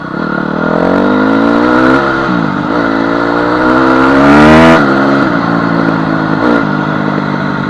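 Honda CR250 two-stroke dirt bike engine revving under acceleration, its pitch climbing for about four seconds with brief dips, then dropping sharply as the throttle is rolled off and running steadier at lower revs.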